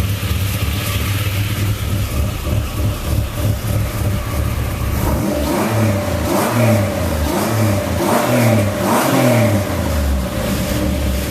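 Chevrolet Cavalier's engine idling, then blipped through a run of quick revs about a second apart, each rising and falling straight back, before settling back to idle.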